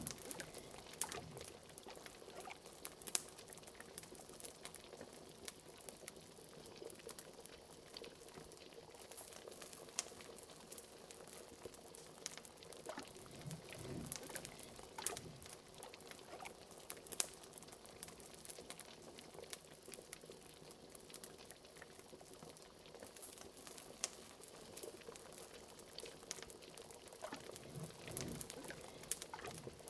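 Liquid bubbling and gurgling at a steady simmer, with scattered sharp crackles and pops of a wood fire.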